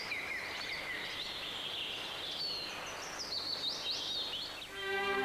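Many birds chirping over a steady outdoor hiss. Near the end a string orchestra starts playing.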